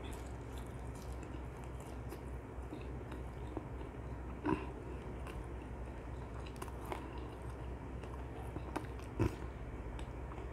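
Close-miked chewing of crispy, sticky glazed Korean fried chicken (dakgangjeong), soft crunches and wet mouth clicks over a steady low hum, with two louder clicks about four and a half and nine seconds in.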